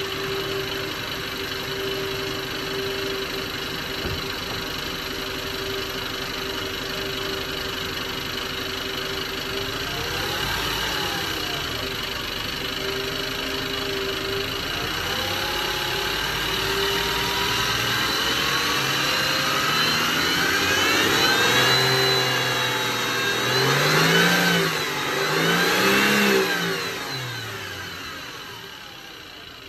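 Ford FG Falcon engine at operating temperature, idling and then revved: two small blips, a longer climb held for a few seconds, then two quick blips before it settles back to idle. The owner hears a lifter-like ticking from it once hot that seems to come from lower than the valve train.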